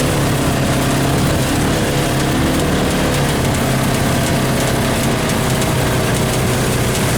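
Polaris RZR side-by-side's engine running steadily while riding, with wind and ride noise on the microphone.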